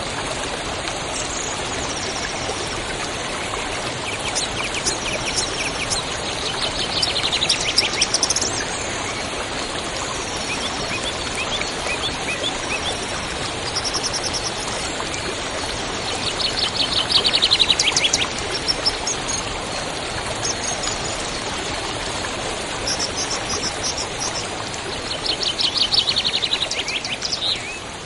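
Steady rushing of a stream, with birds singing over it: a loud rapid trill about a quarter of the way in, another just past the middle and a third near the end, with scattered higher chirps between.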